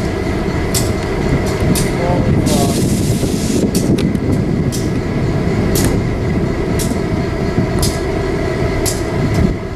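Passenger train passing with a steady, heavy rumble, broken by irregular sharp clicks from the wheels over rail joints.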